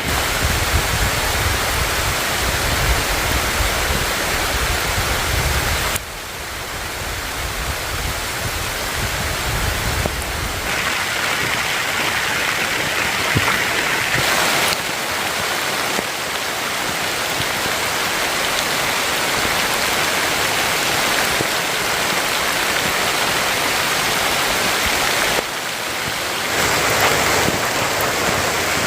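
Steady heavy rain, its noise shifting abruptly a few times, with a low rumble beneath it for the first ten seconds.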